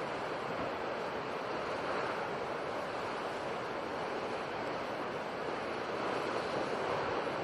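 Sea surf washing in a steady rush, swelling gently about two seconds in and again near the end.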